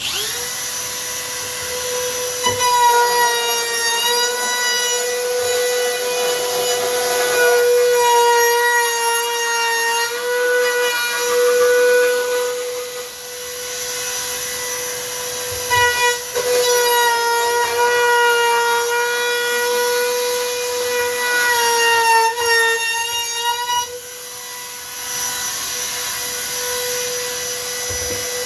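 A high-speed power tool motor running with a steady whine. The pitch wavers and sags slightly in two long stretches, as when the tool is bearing on the work.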